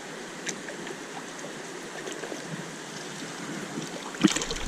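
Steady flow of river water with a few small ticks and splashes. A sudden louder thump near the end, followed by low rumbling handling noise.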